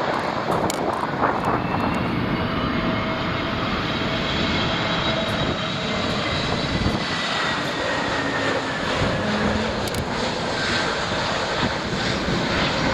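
Jet airliner's engines heard as a steady, loud roar, with a thin high whine that slowly falls in pitch as the aircraft moves past.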